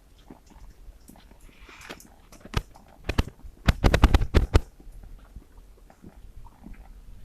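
A series of sharp knocks and clatter: one loud knock about two and a half seconds in, then a quick cluster of loud strikes a second later, among scattered small clicks.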